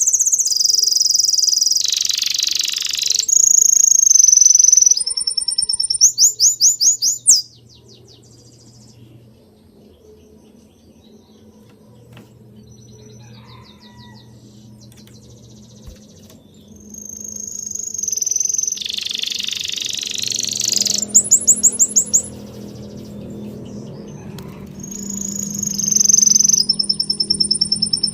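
Several birds singing in phrases of high-pitched whistles and fast trills of repeated notes, loud at first, dropping to a quieter lull in the middle and picking up again near the end.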